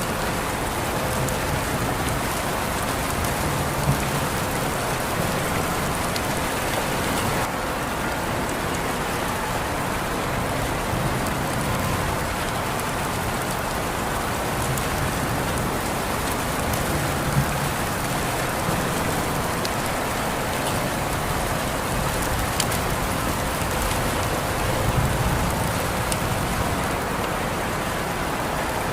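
Steady rain falling on surfaces, an even hiss with a few sharper drips and ticks now and then.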